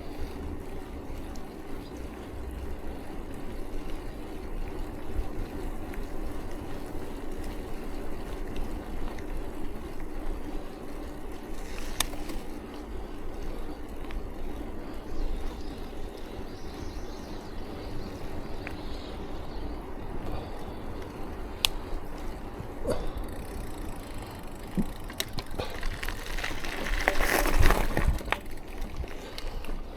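Steady rolling rumble of a bicycle being ridden, with scattered clicks and rattles and a louder rush of noise near the end.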